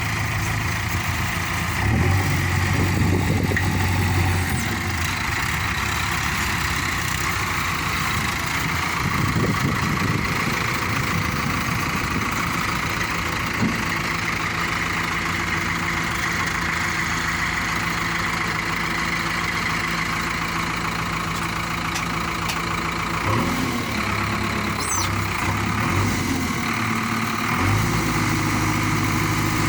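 Heavy machine's diesel engine running steadily near idle, working up under load a few times (about two seconds in, around twenty-three seconds, and near the end).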